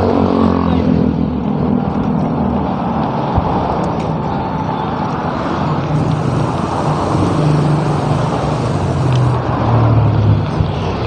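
Wind noise on the microphone of a moving bicycle, with the low hum of motor-vehicle engines in traffic, one getting louder from about six seconds in.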